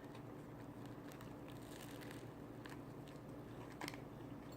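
Faint eating sounds, a few soft clicks and crunches of chewing, over a low steady hum.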